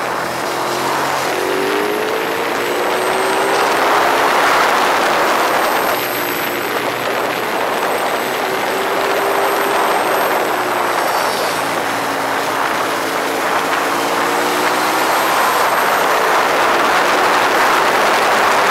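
Ducati 848's L-twin engine running at speed, its pitch climbing and dropping several times with throttle and gear changes, over a loud rushing hiss.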